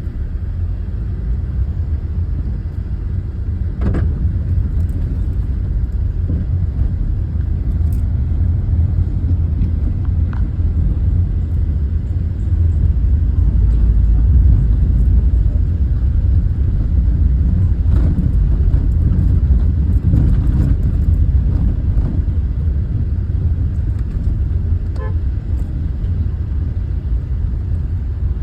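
Tractors on the move in a convoy: a continuous low engine and road rumble, slightly louder in the middle, with a few faint clicks and knocks.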